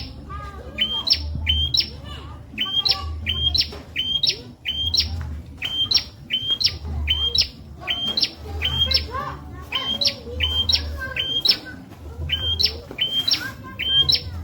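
Prenjak (prinia) calling over and over: short, sharp notes that jump upward in pitch, repeated about once a second, with fainter warbling from other birds and a low thump every second or so underneath.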